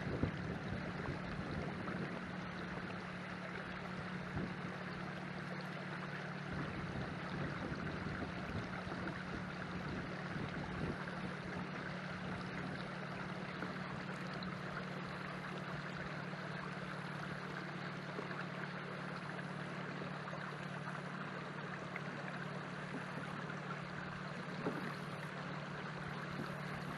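A battery-powered trolling motor on a canoe runs with a steady low hum, over a constant wash of water along the hull.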